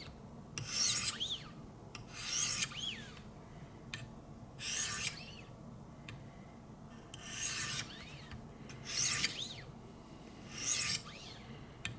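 A knife's S90V steel edge being sharpened on the 800-grit stones of a Wicked Edge guided sharpener: six separate rasping back-and-forth strokes, about one every two seconds. Several strokes end in a brief thin squeak.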